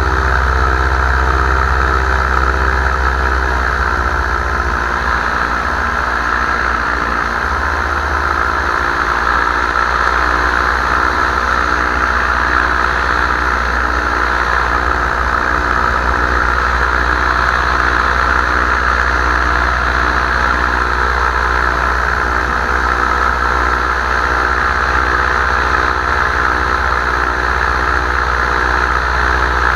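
Paramotor engine and propeller running steadily in flight, easing slightly lower in pitch about three to four seconds in.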